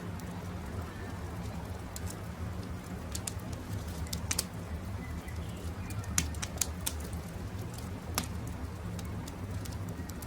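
Wood campfire crackling, with scattered sharp pops over a steady low rumble, while birds call in the background.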